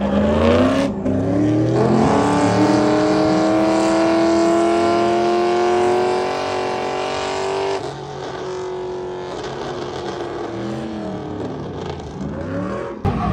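Car engine held at high revs during a burnout, its note climbing slowly for several seconds. About eight seconds in it drops to lower revs that rise and fall.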